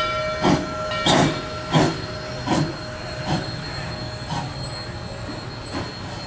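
Narrow-gauge steam locomotive: a whistle with several steady notes cuts off about a second in, while the exhaust chuffs about once every 0.7 seconds. The chuffs grow fainter and further apart toward the end.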